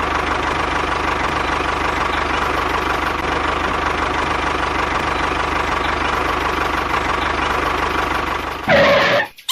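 A small motor running steadily with a thin whine, a brief louder burst near the end, then cutting off just before the end.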